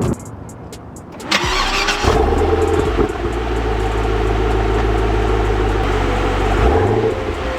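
Twin-turbo 427 V8 of a Lingenfelter Corvette cranking and firing up about a second in, then settling into a steady idle. The revs rise briefly near the end.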